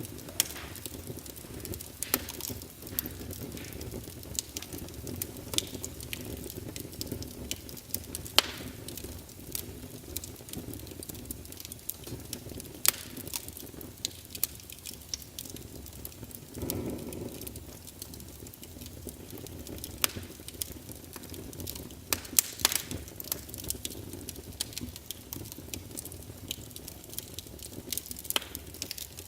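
Wood fire burning in a fireplace, logs crackling and popping at irregular moments over a low steady rumble of the flames, with a brief soft whoosh of flame about seventeen seconds in.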